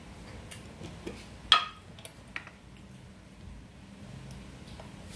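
Eating sounds of someone chewing food, with a few sharp clicks, the loudest about one and a half seconds in.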